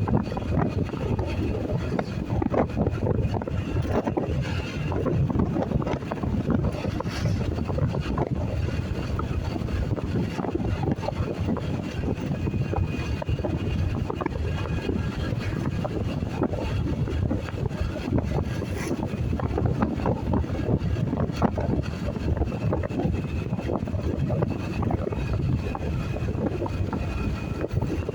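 Wind buffeting the microphone over the low, steady rumble of a motorcycle underway.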